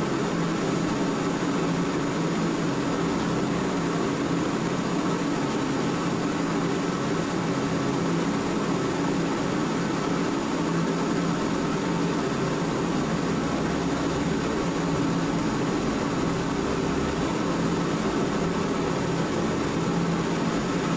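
Mr. Heater 60,000 BTU forced-air propane heater running steadily: an even rush of fan air and burner with a constant hum.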